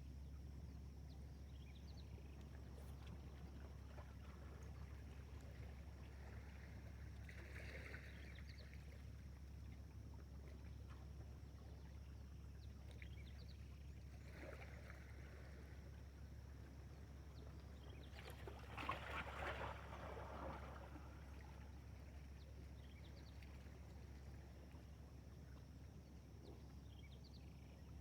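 Faint water splashes near a small boat: three brief splashes, the longest and loudest about two-thirds of the way in, over a steady low hum.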